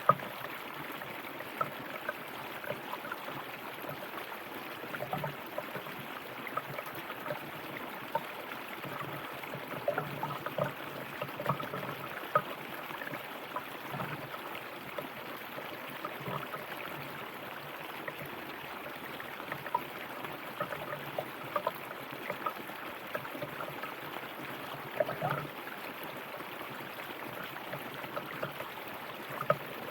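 River water flowing and gurgling over rocks, a steady rush with frequent small splashes and bubbling spurts.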